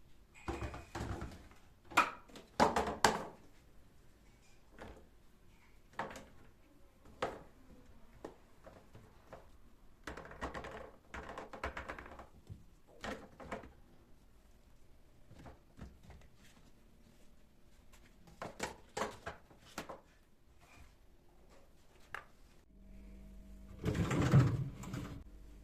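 Household handling sounds: scattered clicks and knocks of objects being picked up and set down, with a few stretches of rustling. A steady low hum comes in near the end, under a louder burst of rustling and knocking.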